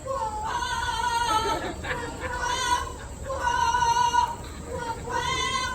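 A parrot singing loudly in a series of long, wavering notes, each about half a second to a second long, with short breaks between them.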